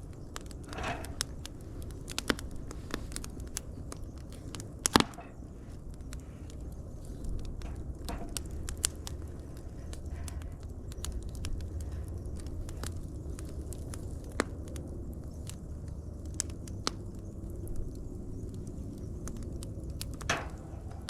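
Wood fire burning with a low steady rumble and scattered sharp pops and crackles, the loudest pop about five seconds in. Short hisses come now and then.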